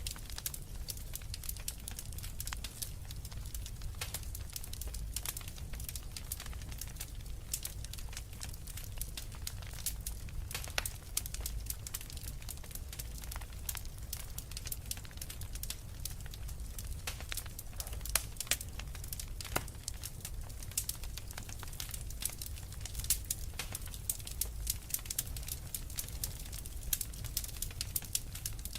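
Wood fire burning in a fireplace: logs crackling with many sharp, irregular pops over a low steady rumble.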